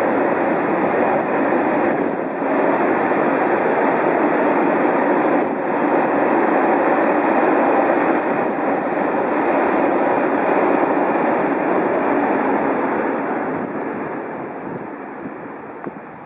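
Freight train of tank wagons rolling past: a steady rumble of wheels on rail that fades away over the last few seconds as the end of the train goes by.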